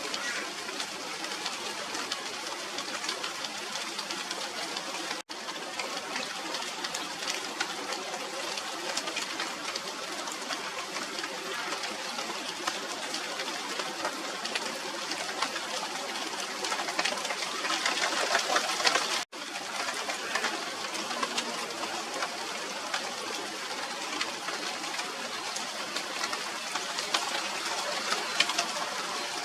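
Steady rain falling on the leaves of a china doll tree (Radermachera sinica), a dense hiss of many fine drop ticks that grows heavier for a few seconds past the middle.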